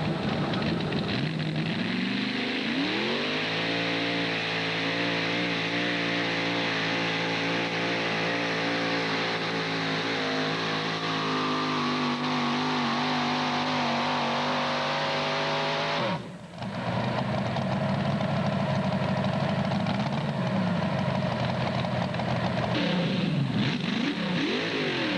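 Mini modified pulling tractor's engine revving up over the first few seconds and then held at high revs through a pull. About sixteen seconds in, the sound breaks off abruptly for a moment, then engine noise returns with the pitch rising and falling.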